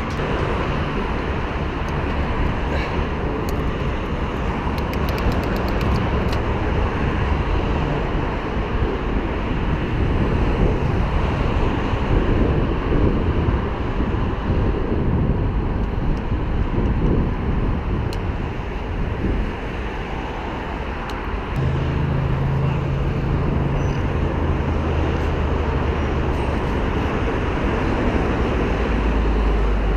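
Steady wind rumble on a bicycle-mounted action camera's microphone during a mountain-bike ride, mixed with the noise of city road traffic. A steadier low hum comes in about two-thirds of the way through.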